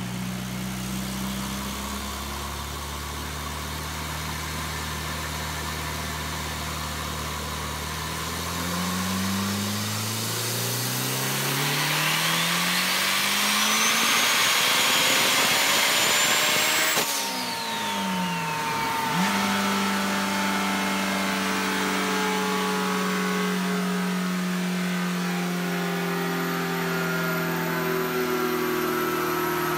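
Compound-turbocharged Honda S2000 engine making a dyno pull: after running steadily it climbs in revs for about nine seconds, with a high whine rising alongside. About halfway through the throttle closes suddenly, the revs and whine fall away, and it settles into a steady idle.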